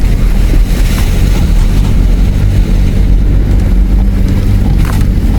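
Four-wheel drive heard from inside the cabin, crawling over a rough, rutted dirt track: a steady low engine and tyre rumble with a couple of short knocks from the body and suspension over bumps.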